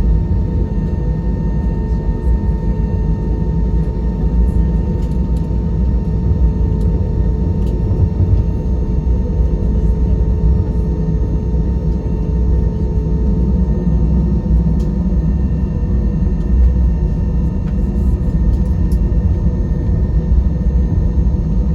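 Airbus A320-200 cabin noise: the jet engines running steadily, a low rumble with a few steady tones over it, heard from inside the passenger cabin.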